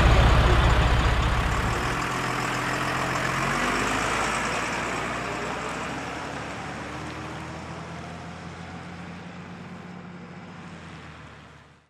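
Diesel truck engine idling, its steady low tone weakening about two seconds in, then fading away to silence near the end.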